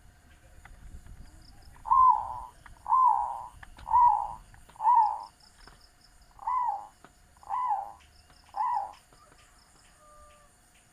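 Zebra dove (perkutut) cooing: seven short arched coo notes about a second apart, with a brief pause after the fourth.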